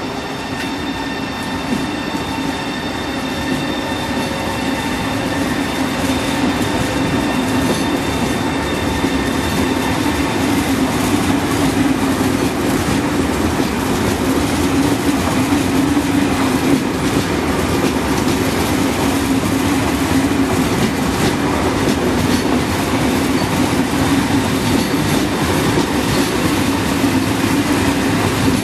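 Allegro electric passenger train (VR Sm6, a Pendolino-family unit) rolling slowly past at close range, with a steady rumble and wheels clicking over the rail joints. It grows louder over the first several seconds and then holds steady. A faint high whine sounds in the first part.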